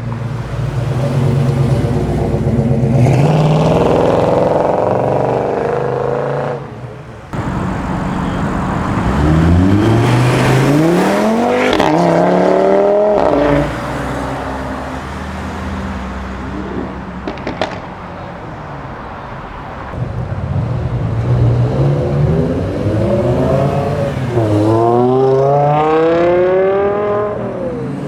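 Performance cars accelerating hard away from a standstill. The engine pitch rises and drops back at each gear change, first near the middle and again near the end, over the steady running of other engines.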